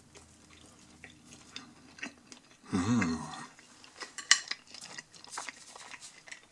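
Person chewing pizza, with a short hummed "mm" about three seconds in, then a few sharp clicks and knocks as a piece of crust is picked up off a ceramic plate.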